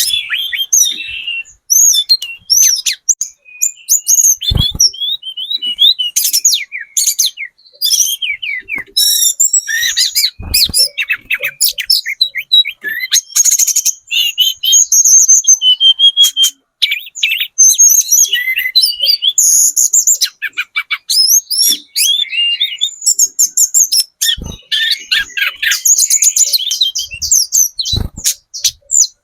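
Hill blue flycatcher (tledekan gunung), a spotted 'trotol' bird, singing nonstop in fast, varied warbling phrases and trills, with a few short knocks in between.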